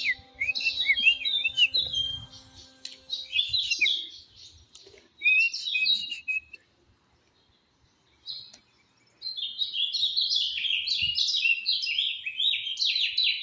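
Northern cardinal singing: short phrases of slurred whistled notes, a pause of a couple of seconds, then a long fast run of short falling notes near the end.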